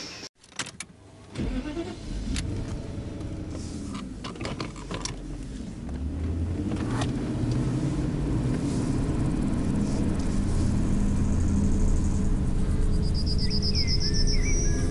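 Car engine running with a steady low rumble that grows louder about six seconds in, after a few sharp clicks in the first seconds. Birds chirp near the end.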